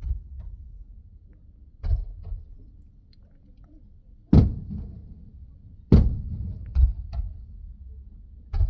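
Fireworks shells bursting, heard muffled from inside a car: about five sharp booms a second or two apart, each followed by a low rumble.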